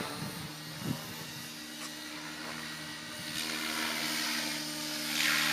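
RC helicopter in flight: a steady motor and rotor whine that swells into a louder whoosh about five seconds in.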